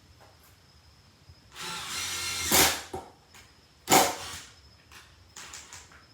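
Cordless impact driver run in two brief bursts: one of about a second that swells to a loud peak, then a shorter, sharper one about four seconds in, followed by a few light clicks.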